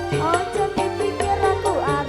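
Campursari band music in an instrumental stretch: a steady drum beat over a bass line, with a melody line that slides up and down in pitch.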